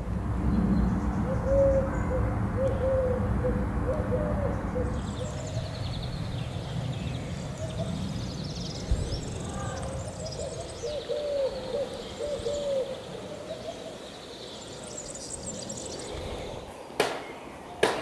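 Birds calling: two spells of low, warbling calls, with higher chirps of small birds from about a third of the way in, over a low rumble. Two sharp clicks come near the end.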